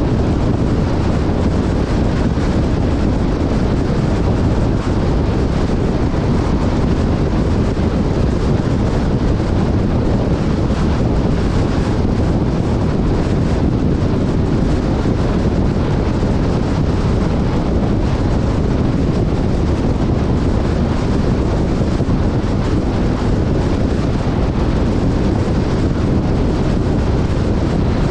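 Wind rushing steadily over the camera's microphone, with a vehicle's rumble underneath, as from a moving off-road vehicle.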